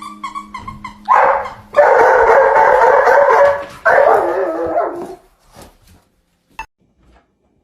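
A dog gives a quick run of short yips, then howls loudly in three long stretches, the last one falling in pitch.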